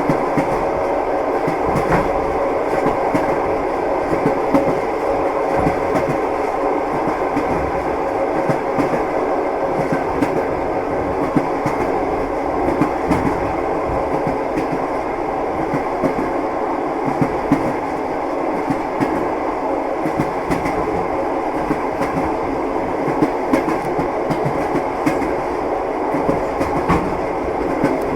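Train wheels clattering on the rails with a steady rumble from the moving carriage, broken by frequent short, irregular clicks and knocks.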